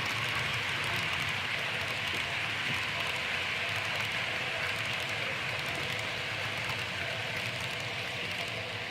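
Model train running on the layout track, a steady rushing hiss that fades slightly toward the end.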